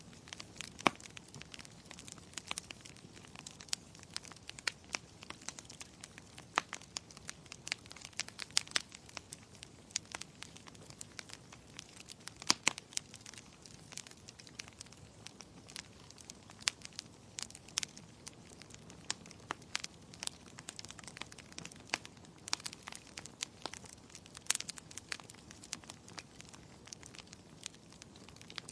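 Wood fire in a fireplace crackling: an irregular stream of sharp pops and snaps, a few of them louder, over a soft steady hiss of burning.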